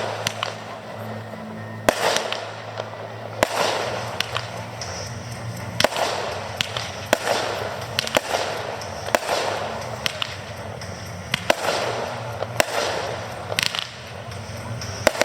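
Aerial fireworks shells bursting in a display: a dozen or so sharp bangs, roughly one a second, each trailed by crackling.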